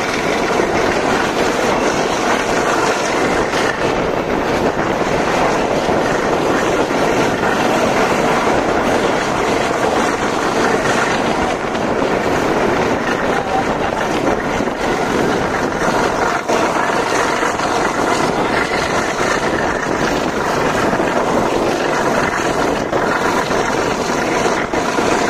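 Passenger train running at speed, heard from an open carriage doorway: a steady, loud noise of wheels on the track and rushing air.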